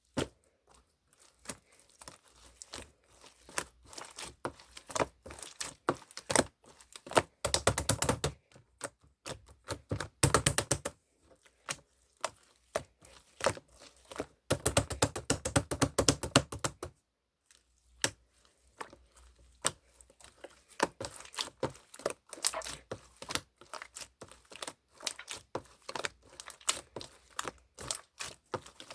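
Close-up handling of sticky craft material: runs of rapid small clicks and crinkles, heaviest in three bursts in the middle, with a short pause and then scattered clicks.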